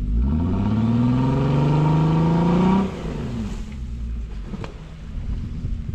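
Jeep Wrangler's engine revving, its pitch climbing steadily for almost three seconds, then dropping off suddenly to lower, uneven running.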